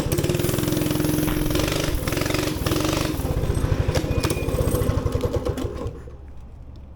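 Minibike's small gas engine running with a fast, even firing pulse, then cutting out about six seconds in.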